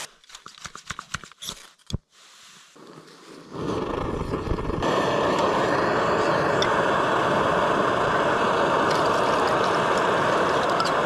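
A few handling clicks and knocks, then about three and a half seconds in a camp stove burner is lit and runs with a steady roaring hiss, growing stronger a second later as the flame is turned up.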